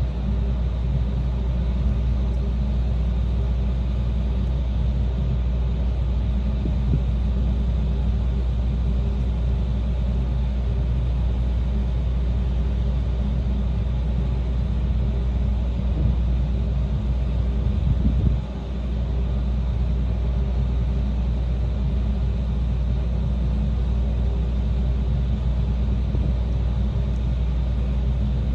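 Steady low rumble of a coastal cargo ship's engine running under way, with a brief bump and dip about eighteen seconds in.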